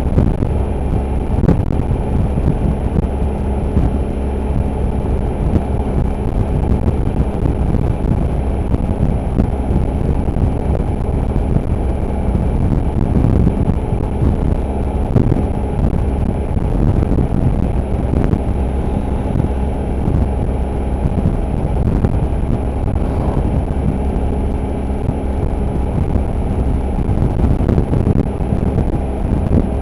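Motorcycle engine running steadily while riding, mixed with a heavy low wind rumble.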